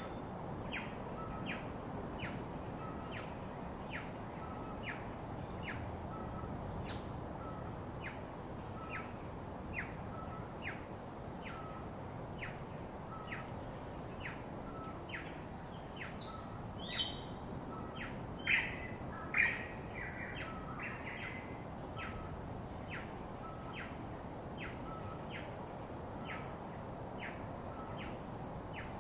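Wild birds calling. One bird repeats a short call at a steady pace, somewhat more than once a second, and a few louder chirps come about two-thirds of the way through. A steady rushing background and a thin, steady high tone lie underneath.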